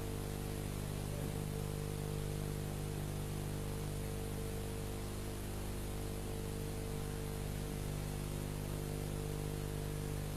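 Steady electrical hum with a layer of hiss from the recording and sound system, unchanging throughout, with no voice.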